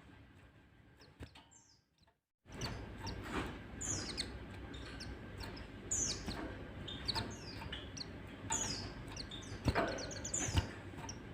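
White-eyes (pleci) calling: many short, high, falling chirps in quick runs, beginning after a brief dropout about two seconds in, over a low steady hum. There are two sharp clicks near the end.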